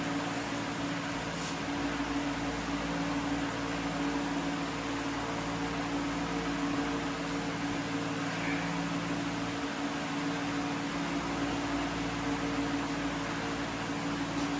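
Steady electric motor hum with a constant low tone and an even hiss, like a running fan, with a couple of faint light clicks.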